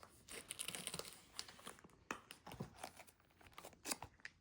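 Packaging crinkling and rustling as it is handled, with a few light knocks and clicks.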